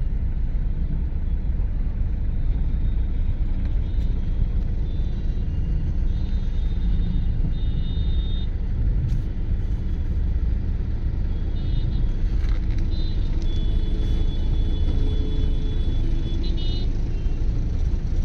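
Jammed road traffic: a steady low rumble of vehicle engines, with several short high horn toots and one longer horn blast about 13 to 16 seconds in.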